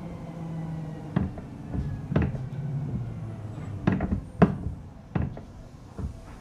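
Inside a Seibu 4000 series electric train slowing on the approach to a station: a low running rumble with a faint falling whine, broken by about six sharp knocks from the wheels over rail joints.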